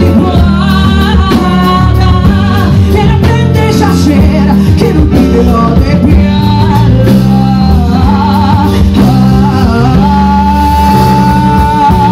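A woman singing a ballad over instrumental accompaniment. Her melody wavers with vibrato, and about ten seconds in she settles on a long held high note with vibrato.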